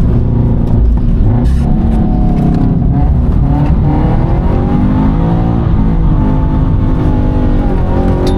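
Toyota GT86's flat-four engine revving hard and changing pitch as it is worked through a drift, the revs falling and climbing again several times.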